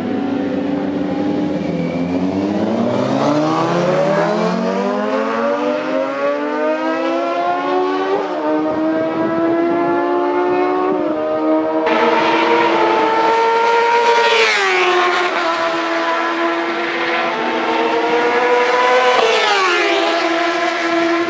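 750cc racing motorcycle engine accelerating hard. The revs climb steadily for several seconds, then hold high with several sudden drops in pitch as it shifts up, each followed by a fresh climb.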